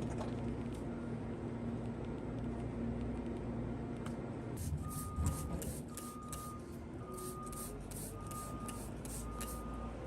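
A vehicle engine running steadily, with a reversing alarm beeping about once a second from about halfway through.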